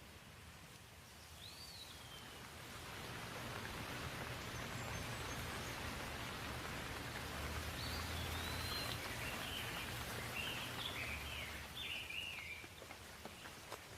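Rain falling steadily, growing heavier a couple of seconds in and easing near the end, with a bird chirping a few times over it.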